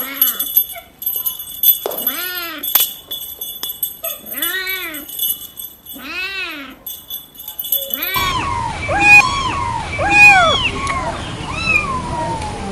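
Cat meowing: three long meows, each rising then falling in pitch. From about eight seconds in, a run of shorter, higher-pitched mews follows over a steady hiss.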